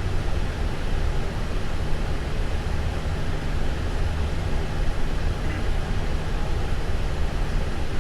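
Steady low rumble and airflow hiss on a Boeing 777-300's flight deck during the start of the left engine.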